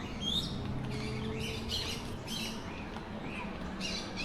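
Birds squawking: a run of short, harsh calls, about two a second.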